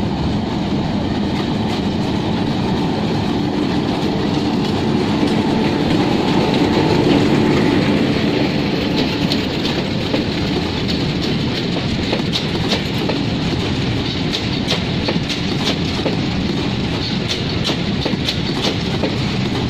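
A diesel-hauled freight train of covered goods wagons passing through without stopping. The rumble is loudest about seven seconds in as the locomotive goes by, then the wagons roll past with a fast run of wheel clicks over the rail joints.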